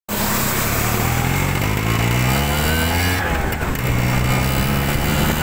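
Yamaha RX135's single-cylinder two-stroke engine running, revved once so its pitch rises for about a second and then drops back, before running steady again.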